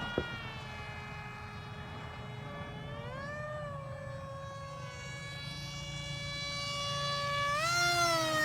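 Battery-powered RC model airplane's motor and propeller whining in flight. The pitch sinks, rises about three seconds in, then climbs again near the end as the throttle or the plane's distance changes. A single short click comes just after the start.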